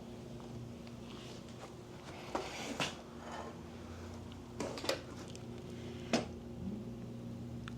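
About five short knocks and clatters, as of objects being handled and set down, over a steady low hum.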